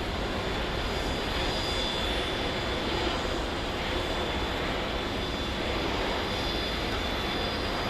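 Airbus A350-941's Rolls-Royce Trent XWB turbofans on landing: a steady jet rush with a thin high whine over it.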